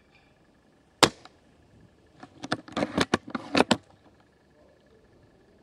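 One sharp crack about a second in, then a quick clatter of clicks and rattles lasting about a second and a half, typical of an airsoft rifle and gear being handled.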